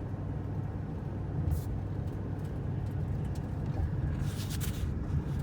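A motor vehicle's engine running with a steady low rumble while driving, with a short hiss about a second and a half in and a longer one near the end.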